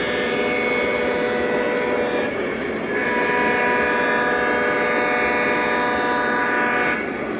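O gauge model train's onboard sound system sounding its horn in two long blasts: the first, already sounding, ends about two seconds in, and the second, longer one starts about a second later and stops shortly before the end. Under the horn runs the steady rumble of the train on the track.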